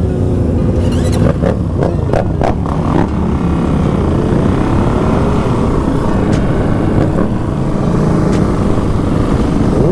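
Dirt bike engine running under way. Its pitch rises from about four to six seconds in as the bike accelerates, and there are a few sharp clicks or knocks in the first three seconds.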